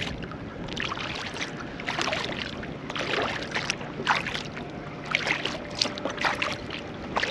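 Kayak paddle strokes, the blades dipping and splashing in the water in an uneven run of splashes and drips, about one or two a second.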